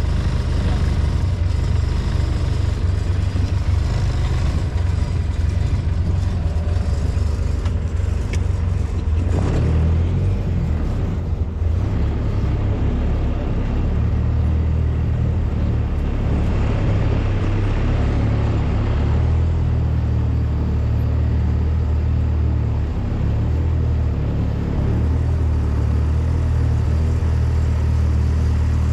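Polaris Ranger side-by-side's engine running steadily as it drives, a low rumble.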